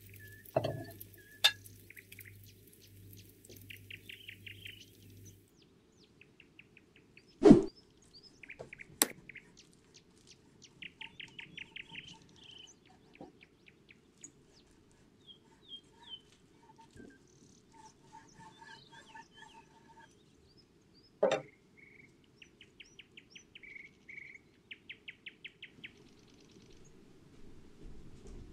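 Small birds chirping and singing in quick repeated trills. Two sharp knocks stand out, the louder one about a quarter of the way in and another about three quarters through.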